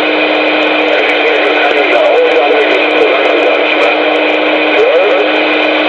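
CB radio on Channel 19 playing a loud, garbled transmission: dense static with a steady low tone and warbling, unintelligible sound running through it.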